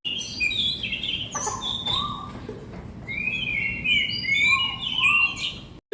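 A busy chorus of many birds calling at once: short chirps and sliding whistled notes overlapping, with no single song standing out.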